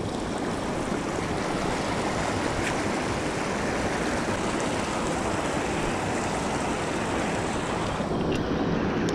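Steady rushing of creek water flowing over rocks, loud on the microphone.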